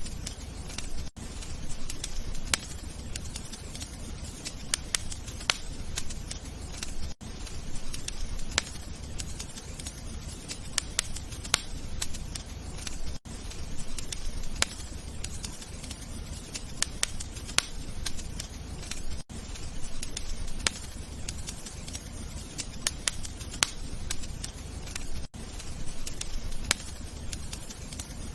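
Wood fire crackling in a fireplace: a steady low rumble of the flames with irregular sharp pops and snaps. The sound cuts out very briefly about every six seconds.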